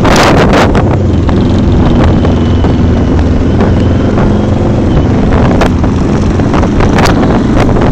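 Motorcycle engine running under loud wind buffeting on the microphone, steady throughout with a few short crackles.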